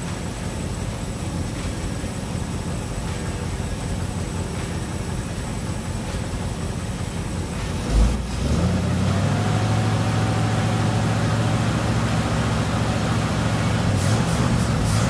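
1956 Chevy Nomad's V8 engine running just after start-up, with a thump about eight seconds in. After the thump the engine is held at a higher, steadier speed by hand at the carburetor, to see whether the alternator begins charging.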